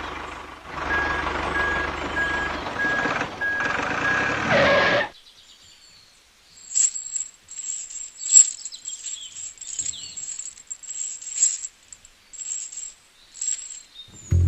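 A small motor running with a rapid, steady beeping over it, cutting off about five seconds in; then only faint, scattered clicks and ticks.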